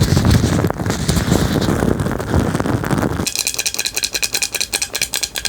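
Close-miked ASMR trigger sounds: a heavy rubbing and rustling against the microphone. About three seconds in it changes abruptly to a fast, even run of sharp taps or clicks.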